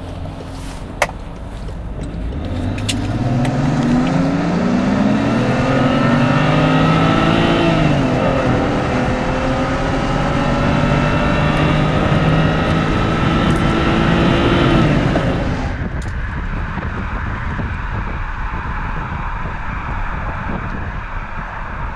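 Tuned N54 twin-turbo straight-six of a 2009 BMW 535i accelerating at full throttle: the revs climb for several seconds, drop at one slow automatic upshift near eight seconds, climb again, then the throttle is lifted about fifteen seconds in, leaving road and wind noise.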